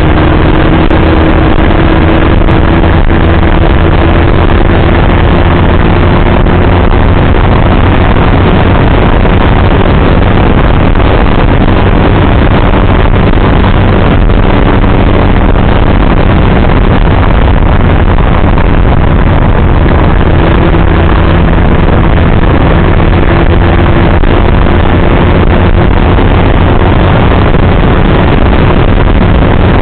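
Motorcycle riding along at steady speed: a loud, unbroken rush of wind and road noise over the engine's drone, whose note drifts slowly upward twice.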